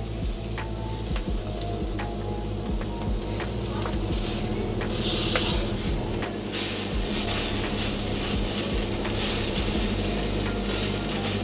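Hand-dived scallops searing in vegetable oil on a hot flat-top griddle, sizzling steadily, growing louder from about halfway through, with a few faint clicks.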